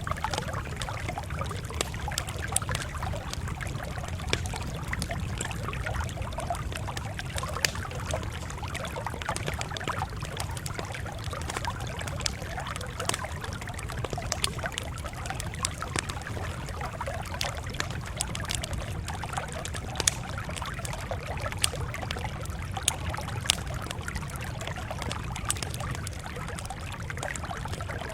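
Campfire crackling: a steady hiss and low rumble with sharp pops scattered throughout, a few louder ones in the second half.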